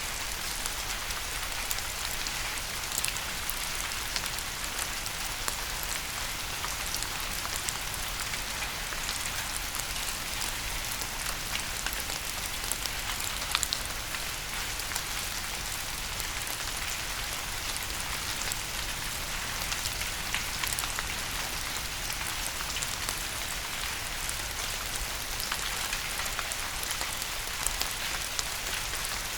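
Steady rain falling on a surface: an even hiss with many small, sharp drop ticks scattered through it.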